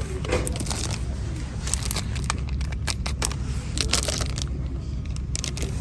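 A steady low rumble of store background noise with scattered clicks and rustling as goods are handled while shopping.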